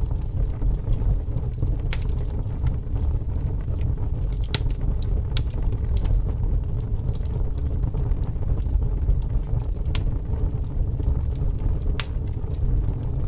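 A fire burning: a steady low roar with irregular sharp crackles and pops scattered through it.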